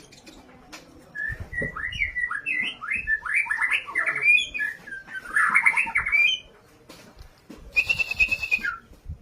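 White-rumped shama singing in an aggressive, fighting-style song: a fast run of varied whistled notes and chatters lasting about five seconds. After a short pause comes one long, level whistle that drops in pitch at the end.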